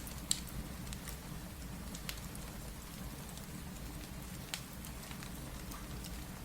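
Steady rain mixed with a crackling wood fire: a constant low rumble under an even hiss, broken by a few sharp pops, the loudest just after the start.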